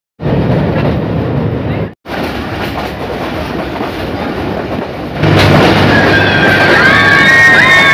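Passenger train running, a steady rattling rumble heard from inside the carriage, broken by a brief cut at about two seconds. About five seconds in it gets louder as the train enters a tunnel, and children start shrieking in long, high, wavering cries.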